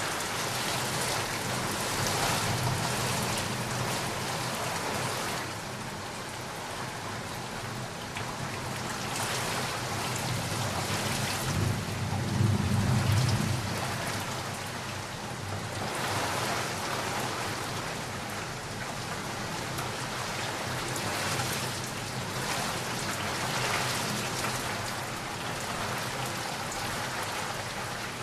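Steady rain falling, with a low roll of thunder that swells about twelve seconds in and fades over a couple of seconds.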